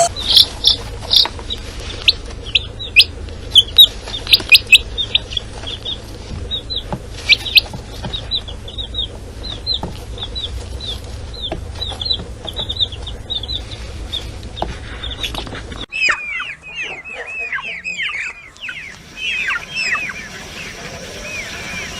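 Birds chirping: rapid, short, high chirps that are loudest in the first few seconds. About 16 seconds in, the sound changes abruptly to lower chirps that fall in pitch.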